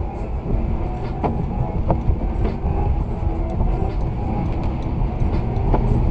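Steady low rumble of a car driving, engine and tyre noise heard from inside the cabin, with a few sharp clicks or knocks scattered through it.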